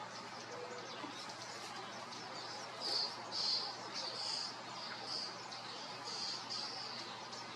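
Bird song: a row of short, high chirps, about two a second, starting about three seconds in and going on to near the end, over a steady background hiss.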